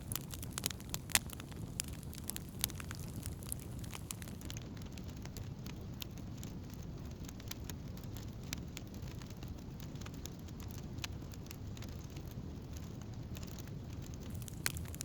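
Wood campfire burning, crackling with many sharp snaps and pops over a low steady rush. The pops come thickest in the first few seconds and again near the end.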